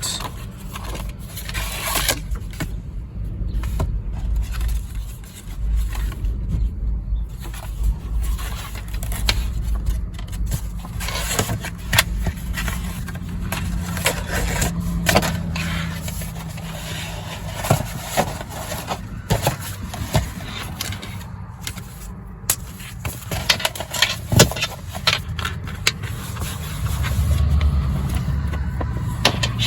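Paper notebook inserts being handled and pulled out of a traveler's notebook cover: scattered rustles, scrapes, rubbing and light taps, over a steady low rumble.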